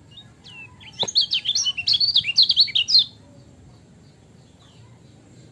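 Kecial kuning, a small white-eye, singing a rapid burst of high chirps and twitters for about two seconds, starting about a second in, with a few faint single chirps around it.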